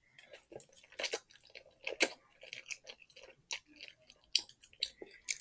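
A person eating ramen noodles: irregular wet chewing and mouth clicks, with a sharper click about two seconds in.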